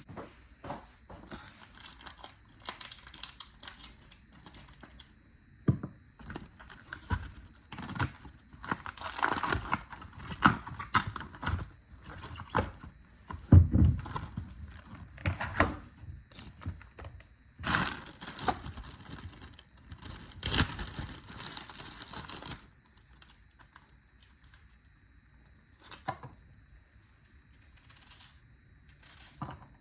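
Crinkling and rustling of packaging handled by hand, broken by knocks and thunks, with the loudest knock near the middle. It stops about three quarters of the way through, leaving only a few light clicks.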